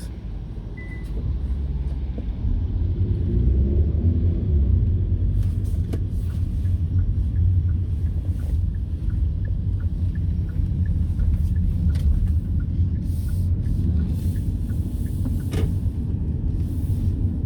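Car driving on the road, heard from inside the cabin: a steady low rumble of engine and tyre noise that grows louder about two seconds in as the car picks up speed, with a few faint clicks.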